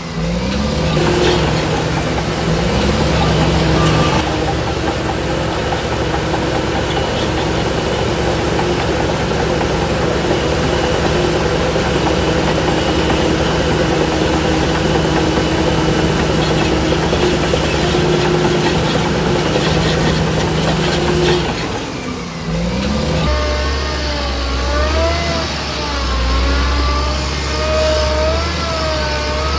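Heavy diesel earthmoving machinery running steadily under load, with clanks. About three-quarters of the way through the sound changes abruptly to a deeper drone with a wavering whistle-like tone over it.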